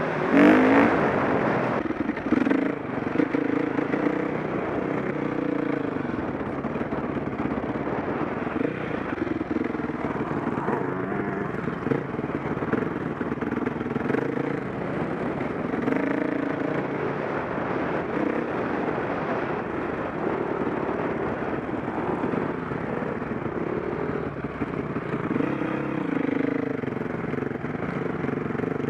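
Single-cylinder four-stroke engine of a KTM 525 SX motocross bike running under constantly changing throttle, its pitch rising and falling, with a loud burst about half a second in.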